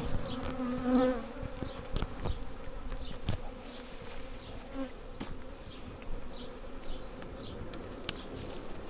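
A honey bee swarm buzzing: many bees flying around their cluster make a steady drone, with a few faint knocks.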